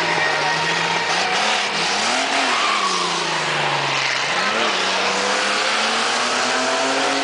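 Chevrolet Chevette with a six-cylinder engine running hard, its pitch rising and falling a few times as it revs, over a steady hiss of tyre noise.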